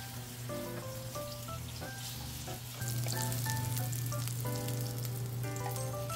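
Slices of tofu pan-frying in oil, sizzling, louder from about three seconds in as the slices are turned, over a steady low hum.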